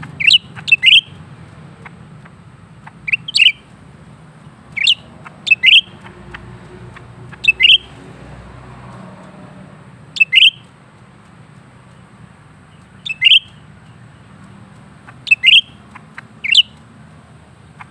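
Cucak ranting (leafbird) calling over and over: short, sharp, high chirps, often two at a time, repeated every two to three seconds.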